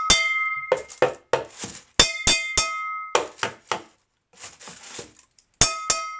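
Metal saucepan struck hard in quick groups of three, each strike ringing, alternating with runs of softer, duller taps: a loud-and-soft rhythm pattern. Near the end another loud ringing group starts.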